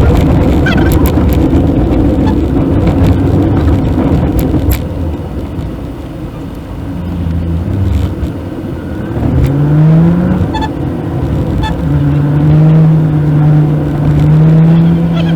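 Maruti Suzuki WagonR AMT being driven, heard from inside the cabin: engine and road noise. The engine note rises about nine seconds in, then holds steady.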